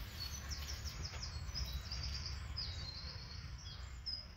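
A songbird singing a quick run of high chirps and trills, over a steady low rumble.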